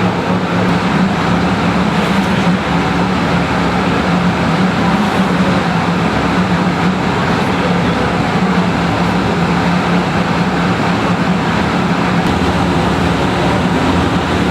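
Ferrari FXX Evoluzione's V12 idling at a steady, unchanging pitch, with a dense rumble.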